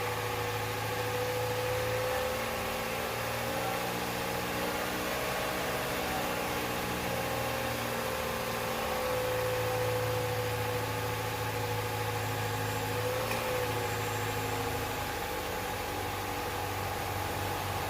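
Toyota 1NZ-FE 1.5-litre four-cylinder petrol engine idling steadily just after being started. It runs evenly, which the owner says means no unusual noise.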